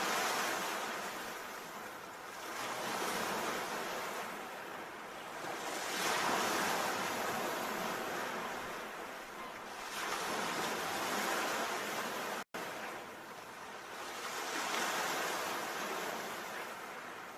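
Sea waves washing ashore, the surf swelling and fading about every three to four seconds. The sound drops out for an instant about twelve seconds in.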